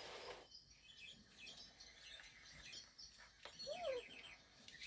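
Faint high squeaks and one short, falling whimper about three and a half seconds in, from a six-week-old doodle puppy.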